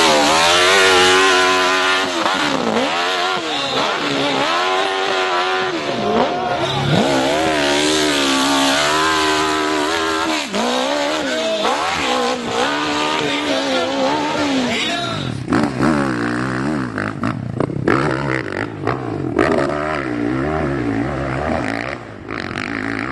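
Dirt-bike engine on a hill climb revving hard, its pitch rising and falling again and again as the throttle is worked. About fifteen seconds in, the steady revving gives way to choppier, broken engine sound with several knocks.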